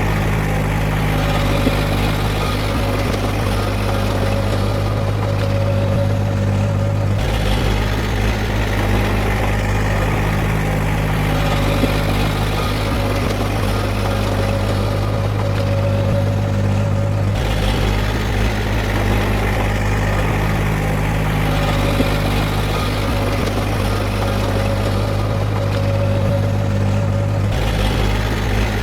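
Heavy diesel engine of earthmoving machinery running steadily with a deep hum. Its tone shifts abruptly about every ten seconds.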